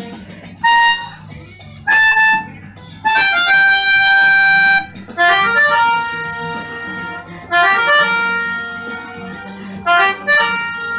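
Pianica (keyboard melodica) played in short held notes and chords, with a quick run of notes about halfway through, testing the reeds after repair.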